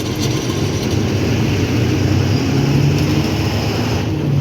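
Truck's diesel engine running steadily under way, a low, even drone with road noise.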